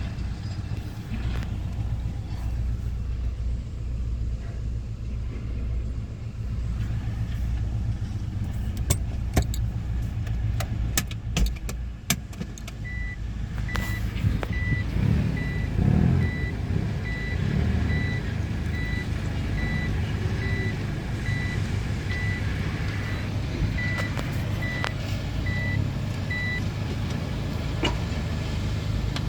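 Subaru EJ201 2.0-litre flat-four engine running steadily at idle during a test run. A few sharp clicks come in the first half, and from about halfway to near the end a high electronic beep repeats steadily, roughly one and a half times a second.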